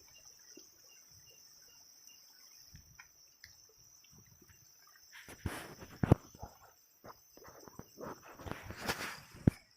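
Night insects chirring steadily in a high band. From about halfway in, water splashes and sloshes, with two sharper, louder splashes, as someone wades and gropes in the water.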